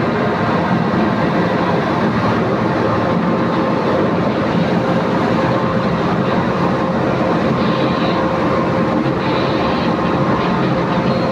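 Steady, loud rumble of a ferry's engines and machinery, heard from inside the ship, with a few faint steady tones running through it.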